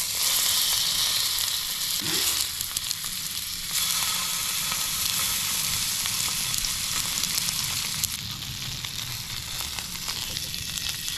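Steak searing in a hot pan with its fatty edge down: a steady sizzle with fine crackling pops.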